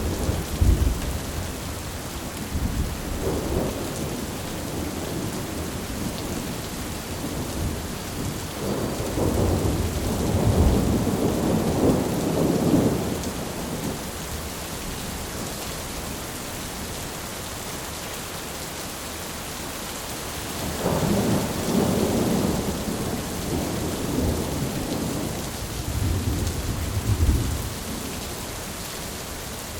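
Thunderstorm: steady rain hiss with low rolls of thunder that swell and fade several times, the longest a few seconds in length a third of the way through.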